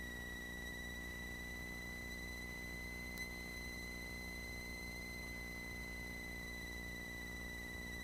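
A steady high electrical whine with a ladder of overtones, its pitch drifting slightly, over a low hum in the Cessna 182's recorded intercom audio. A single short click comes about three seconds in.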